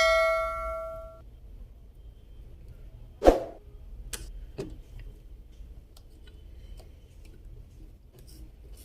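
A metal object rings after being struck and dies away over about a second. About three seconds in comes a single sharp knock, followed by faint, scattered clicks and taps of small tools and parts being handled.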